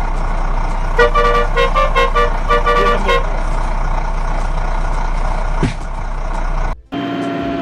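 A vehicle horn sounding a rapid run of short beeps for about two seconds, over a steady noisy hum. After an abrupt cut near the end, a different steady droning whine takes over.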